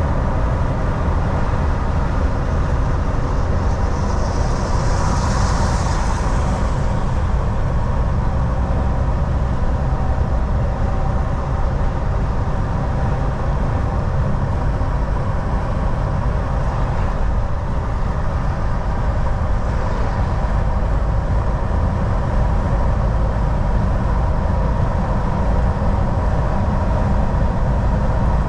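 Volvo VNL 760 semi truck cruising on the highway, heard from the driver's seat: a steady low engine drone and road rumble with a thin steady whine. A brief hiss rises and fades about five seconds in.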